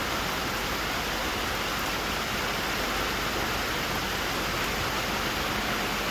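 Hard rain falling steadily on a tin roof.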